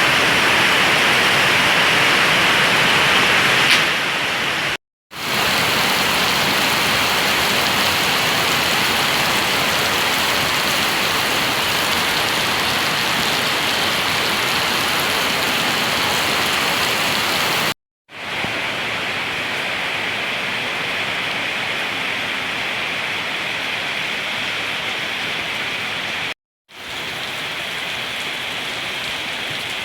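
Steady heavy rain hissing down. The sound cuts out briefly three times, where separate recordings are joined.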